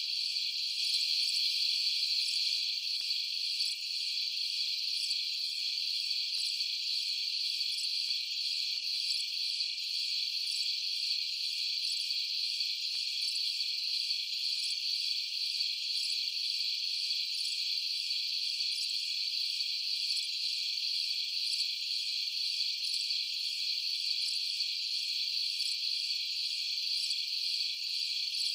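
Dense night chorus of crickets and other insects, a steady high-pitched trilling that does not let up.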